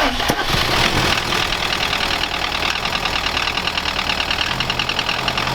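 Lada Priora's 16-valve engine idling, with a fast, even ticking running through it: the knock the engine is known for.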